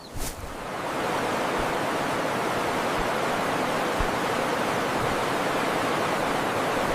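Steady rush of falling or fast-flowing water, swelling up over the first second and then holding even.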